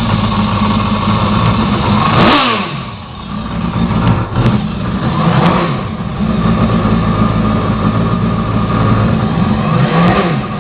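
Yamaha High Output jet ski engine running and being revved: it rises sharply about two seconds in, then the pitch falls away and it briefly quietens. It revs up again around five seconds and once more near the end.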